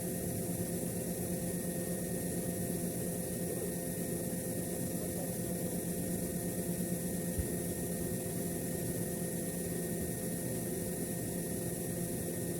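Steady mechanical hum with a few constant tones, like machinery running, and one faint knock about halfway through.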